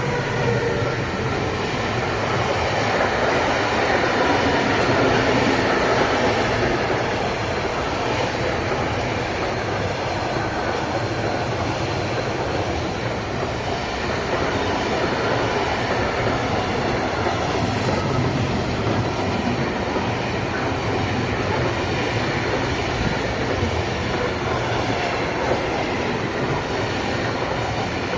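A train passing on the track, its steady rolling noise arriving loudly right at the start and holding throughout.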